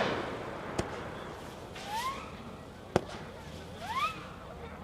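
Tail of a consumer firework cake (Magnus Hornet's Revenge): the rumble of a volley fading, then two single sharp cracks and a couple of short rising tones.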